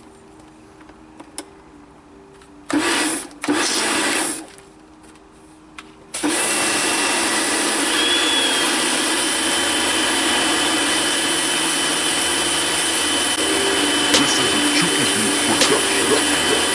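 Electric pressure washer rinsing a car with plain water: two short bursts of spray about three and four seconds in, then, about six seconds in, a steady run of the motor and water jet that keeps going.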